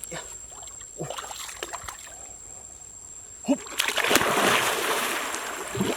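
Water splashing and sloshing, starting loud about four seconds in after a quieter stretch of small knocks.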